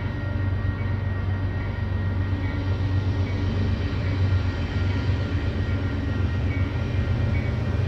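Union Pacific mixed freight train rolling past: a steady low rumble with a faint, steady high whine over it.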